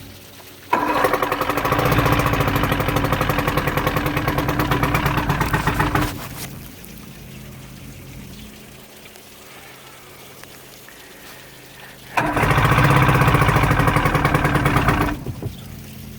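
Johnson 115 HP two-stroke V4 outboard running roughly, surging loud for about five seconds, dropping to a much quieter low run, then surging loud again for about three seconds. It runs badly because two spark plug wires are still disconnected from fogging the cylinders.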